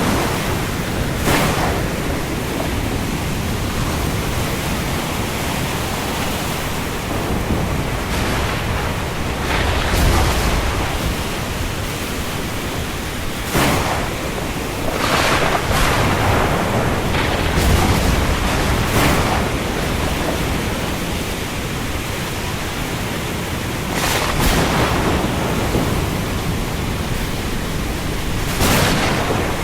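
Steady heavy rain at sea, a dense even hiss, with waves and gusts swelling up briefly every few seconds.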